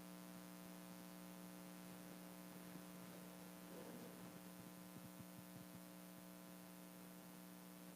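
Near silence: a steady electrical hum from the sound system.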